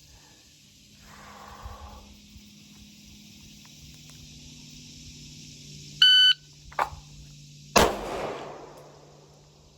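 Shot timer's short electronic start beep, then a sharp click as the handgun comes out of the holster, and about a second and a half after the beep a single pistol shot with a ringing tail.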